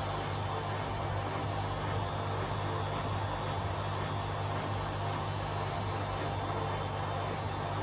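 Two Hotpoint Aquarius washing machines (WMA37 and WMA48) running their spin cycles side by side: a steady hum and whir that holds even throughout.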